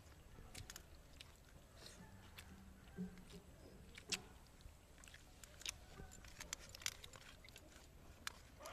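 Faint mouth sounds of people eating rice and curry with their fingers: scattered small clicks and smacks of chewing, with a short low hum about two to three seconds in.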